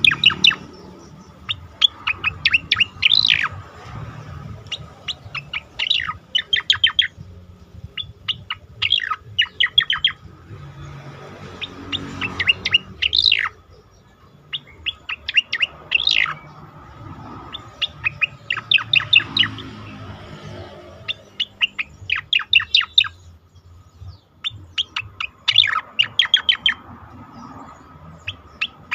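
Cica koreng singing: repeated short phrases of rapid, sharp chirps, a new phrase every two to three seconds, over a faint steady hum.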